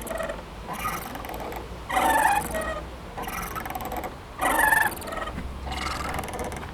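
A playground swing squeaking rhythmically as it swings to and fro, with a louder pitched squeak about every two and a half seconds and fainter ones in between.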